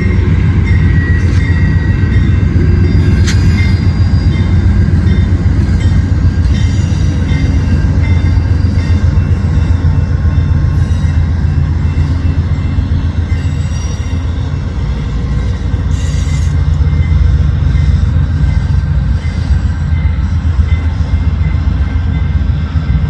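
A train passing close by: a loud, steady low rumble of wheels and cars, with thin high squealing tones from the wheels on the rails and occasional clicks.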